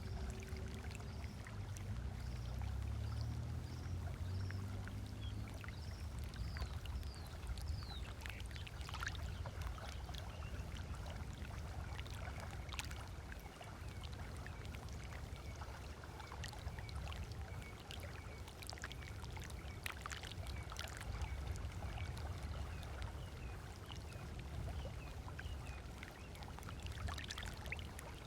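Small waves lapping on a lake shore, steady, with scattered splashes. A boat engine's low hum fades out in the first few seconds. Birds call over it: a run of short falling whistles early on, then a single note repeated over and over through the middle.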